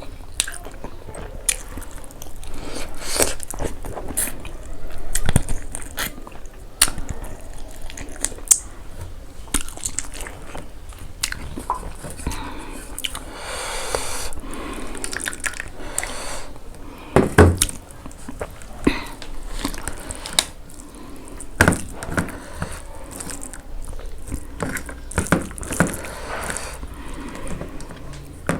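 A person chewing and biting food close to the microphone: wet chewing with many short, sharp clicks and crunches scattered throughout, and a longer rustling, noisy stretch about halfway through.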